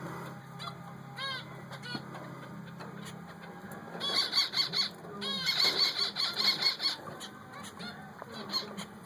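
Finches calling: short, nasal, honk-like chirps, repeated, with two rapid runs of calls about halfway through.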